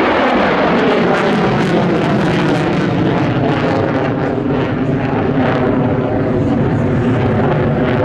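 F-35B Lightning II's single F135 jet engine heard just after a low pass, a steady loud rumble with a constant crackle as the jet moves away.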